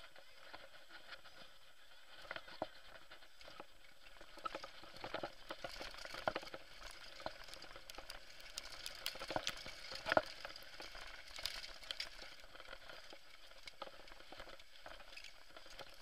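Mountain bike rattling over rough, stony trail on a descent: irregular clicks and knocks over a steady gritty hiss of tyres on loose ground, with a sharper knock about ten seconds in.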